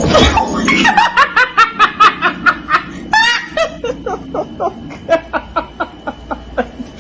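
A person laughing hard in a fast run of short, pitched ha-ha bursts, loudest in the first few seconds, then slowing and fading.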